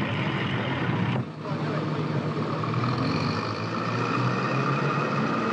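Railway terminus train noise on an old film soundtrack: a dense rumble, with a brief drop about a second in, then a steady high tone that holds through the second half.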